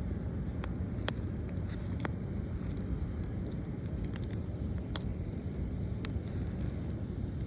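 Campfire burning with a few sharp crackling pops over a steady low rush.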